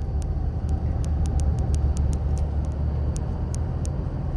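Steady low rumble of a car driving, heard from inside the cabin, with faint light ticks scattered through it.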